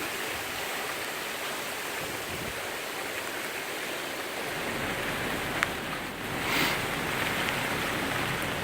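Steady rushing noise of wind and rain in the tail of a hurricane. There is a sharp tick a little past halfway and a brief louder rush about two-thirds in.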